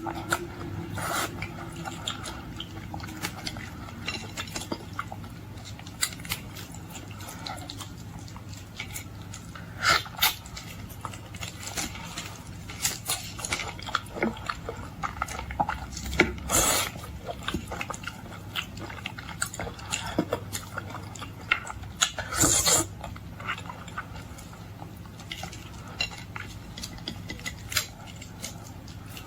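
Close-up eating sounds of boiled shrimp and lobster: chewing and mouth noises with many scattered sharp clicks and clatters, and a few louder short bursts, over a steady low hum.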